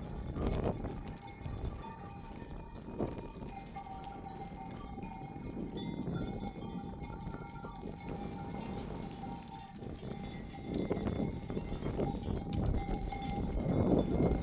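Bells on a flock of sheep clanking as the animals move, with the scuffle of hooves on the ground. It gets louder in the last few seconds.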